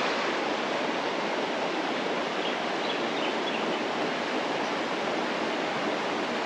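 Steady rush of creek water flowing over rocks, an even wash of noise with no change.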